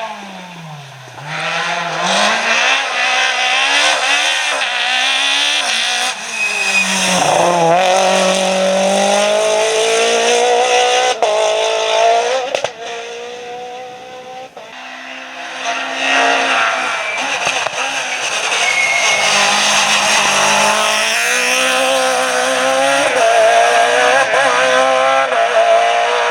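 Rally car engines revving hard, the pitch climbing and dropping back again and again through gear changes, with a quieter stretch about halfway through before the revving picks up again.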